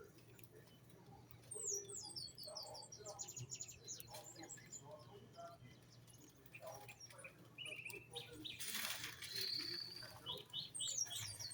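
Small songbirds chirping: quick series of high, falling chirps, a short fast trill in the middle, and more chirp runs near the end. A brief rushing noise comes about three-quarters of the way in, over a steady low hum.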